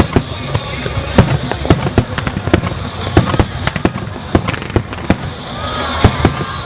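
Fireworks bursting in quick, irregular succession: many sharp bangs and pops, several a second, over a continuous rumble.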